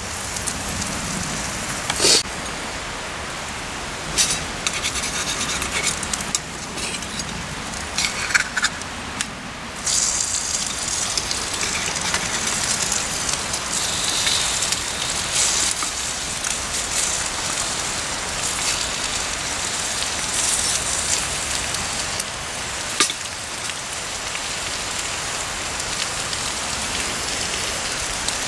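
Eggs and sausages sizzling steadily in a No. 3 Griswold cast iron skillet over a wood fire. A metal spatula clicks and scrapes against the pan a few times.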